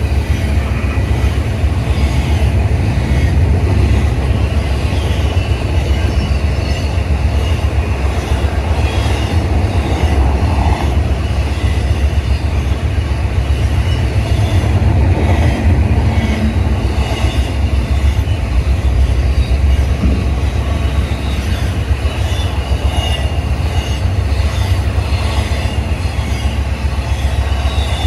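Freight cars of a CSX manifest train rolling past: a steady low rumble of steel wheels on rail with faint repeated clicks.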